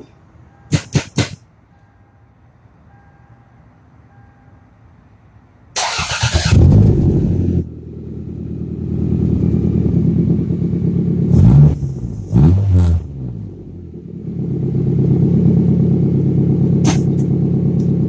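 A 1994 Toyota Camry's 5S-FE four-cylinder engine, straight-piped from the manifold with the pre-cat removed into a 4-inch muffler, starts about six seconds in after a few sharp clicks, catches with a rev, then is blipped twice and settles into a steady fast idle. It sounds meaner with the free-flowing exhaust.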